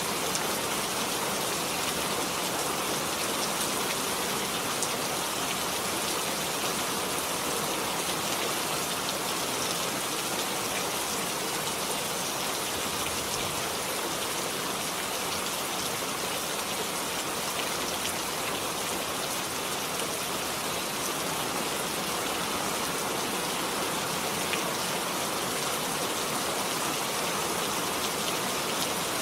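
Steady rain falling, an even hiss of many drops on a surface with no let-up or change.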